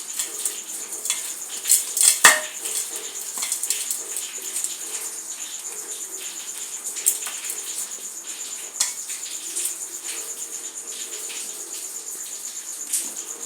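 Dry, crumbly material being broken up and falling in bits: a stream of crisp crackles and sharp clicks, with one louder crunch about two seconds in.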